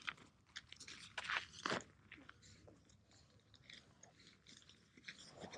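Nylon sleeping-bag and pillow fabric crinkling and rustling as a pillow is shoved in, with a few sharper crinkles in the first two seconds, then softer rustles.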